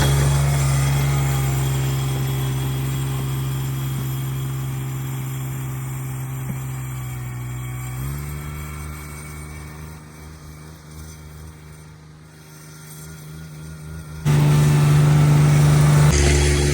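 Cub Cadet 1782 garden tractor engine running at a steady speed. It grows gradually fainter for about twelve seconds, with a slight rise in pitch partway through, then turns abruptly loud again near the end.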